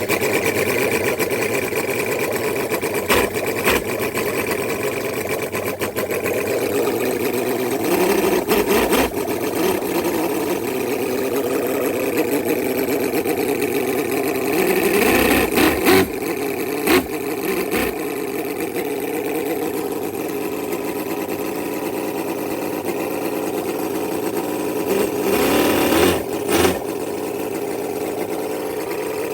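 Cison overhead-valve scale-model V8 engine running steadily, with a busy, fast sound, getting briefly louder a few times.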